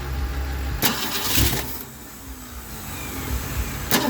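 1964 Mercury Comet Caliente's engine being started for the first time in 25 years after a full restoration, catching and running unevenly. It surges loudly about a second in, sags, and picks up again near the end.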